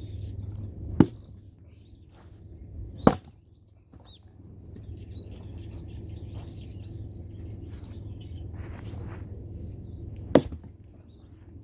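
Fiskars X27 splitting axe striking firewood: three sharp chops, two about two seconds apart early on the window and a third about seven seconds later.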